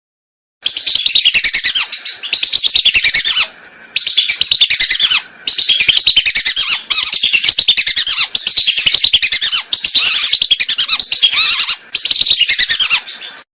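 Whistling ducks calling: loud, shrill whistles in quick succession, each sliding downward in pitch, grouped into phrases of one to two seconds with short breaks between them. This is a recorded lure call of the kind used to draw whistling ducks in.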